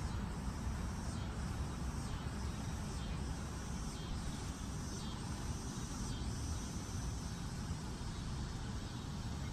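Steady low outdoor rumble with no distinct source. It is joined over the first six seconds by a series of faint, high, falling chirps about once a second.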